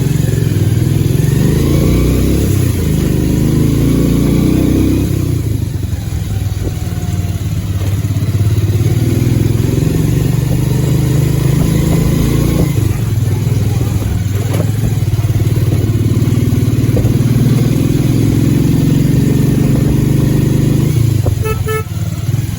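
Bajaj Pulsar 150 motorcycle's single-cylinder engine running while riding, its pitch rising and falling with the throttle. A horn gives a few short beeps near the end.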